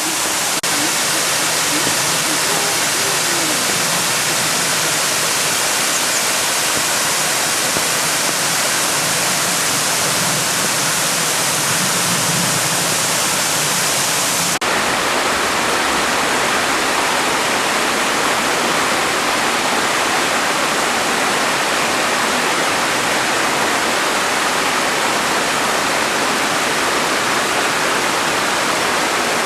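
Waterfall rushing steadily as it spreads out and pours into a pool. About halfway through, the rush abruptly changes tone.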